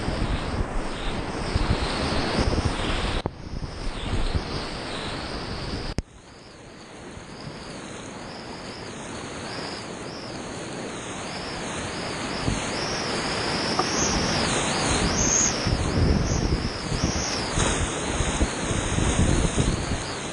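Rushing creek whitewater, a steady roar of water, with wind noise on the microphone. About six seconds in it drops away suddenly, then builds back up over the next several seconds.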